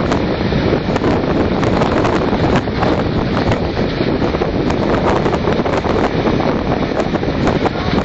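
Wind buffeting the microphone over the steady rumble of a moving steam train heard from on board, with frequent sharp clicks and rattles.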